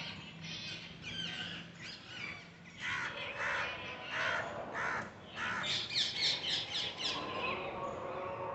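Parrots squawking: a string of harsh, repeated calls that gets louder about three seconds in, with a quick run of calls near six seconds.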